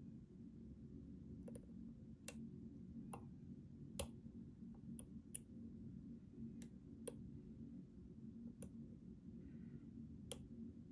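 A lock pick and tension wrench working the pins of a Schlage Primus Everest lock cylinder give about ten sharp, irregular clicks over a steady low hum.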